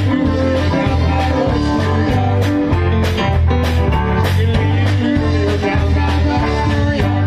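Band music with guitar, bass and drums and a steady beat, with some singing.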